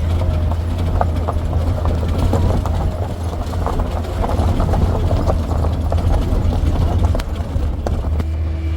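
A motor vehicle running, a steady low drone with frequent clattering knocks.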